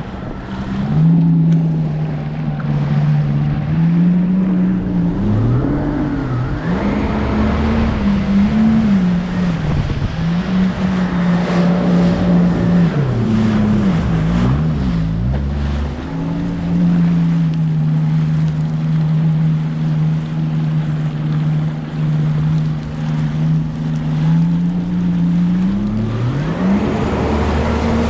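Jet ski engine running under way, its pitch rising and falling as the throttle changes, then held steady for a long stretch, with a drop and climb again near the end. Water rush and wind under the engine.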